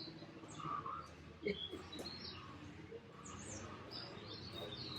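Faint birds chirping, with many short calls scattered through.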